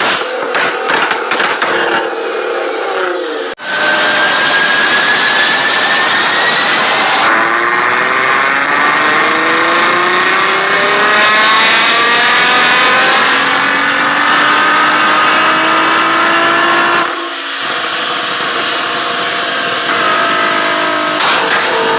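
Nissan GT-R R35's twin-turbo V6 accelerating hard, its pitch climbing, dropping back at an upshift and climbing again. It is framed by stretches of sharp, rapid exhaust crackles near the start and the end, with abrupt changes between them a few seconds in and again about 17 seconds in.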